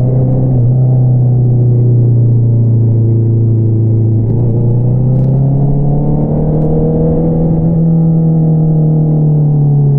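2022 Honda CBR650R's inline-four engine through an Akrapovič single-outlet exhaust, running steadily while riding. The pitch climbs gently about four seconds in, then eases back down over the last couple of seconds as the throttle is rolled off.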